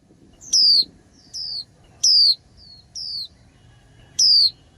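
Female white-eye (vành khuyên) calling: five short, clear falling chirps about one every 0.8 seconds, alternating louder and softer.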